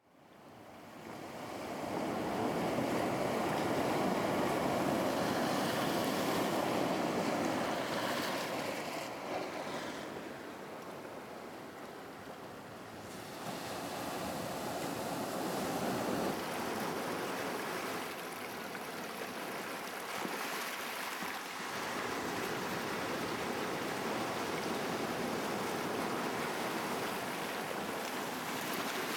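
Waves washing with wind blowing: a steady rushing that fades in over the first two seconds.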